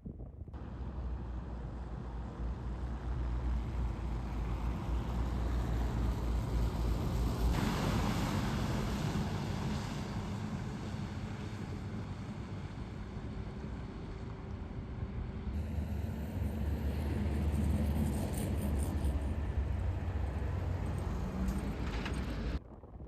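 Strong storm wind rushing and buffeting the microphone with a deep rumble. The sound changes abruptly twice.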